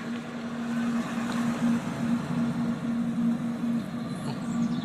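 A weird, steady low hum of one pitch that seems to come from the sky, dropping out briefly several times, over a wash of background noise like distant traffic.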